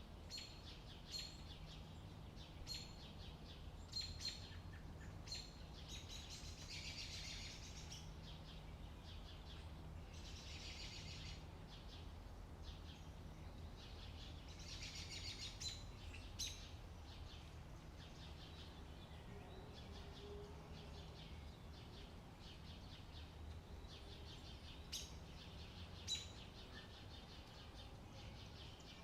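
Birds chirping, with many short, sharp calls and a few bursts of rapid trilling lasting a second or two, over a faint steady low rumble of outdoor ambience.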